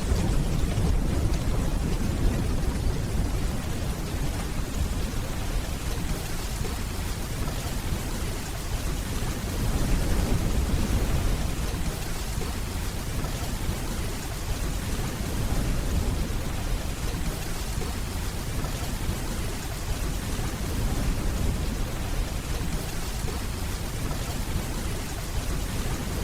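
Steady heavy rainfall, with the low rumble of distant thunder swelling and fading under it a couple of times.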